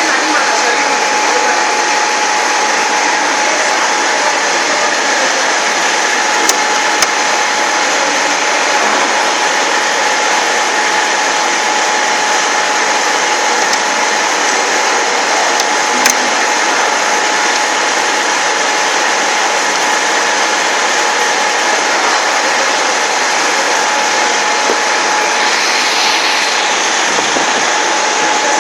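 A VEG-25 end mill grinder's electric motor running steadily with a constant whine. There are a few brief sharp clicks: two close together, then one more some seconds later.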